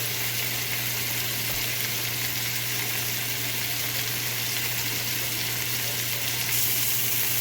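Chicken kebab pieces frying in hot oil in a pan, giving a steady sizzling hiss over a low steady hum.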